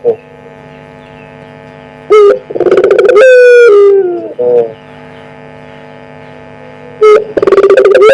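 Puter pelung dove cooing loudly twice. Each coo is a short rising note followed by a long note that slowly falls in pitch. A steady hum can be heard between the coos.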